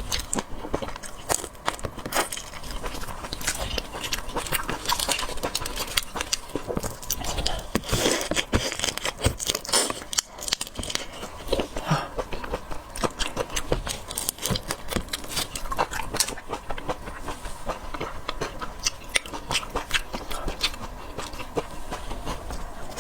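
Close-miked eating of seafood: wet chewing and crunching, with a dense stream of small clicks and crackles.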